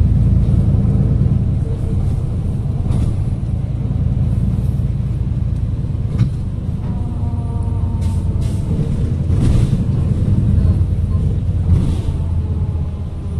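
City bus engine and road rumble heard from inside the cabin while riding, steady and loud, with a few short hisses of air from the bus's air brakes.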